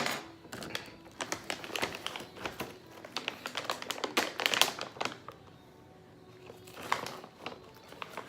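A bag of dog treats crinkling and crackling as it is handled and rummaged through, busiest in the first five seconds, with a few more crackles near the end.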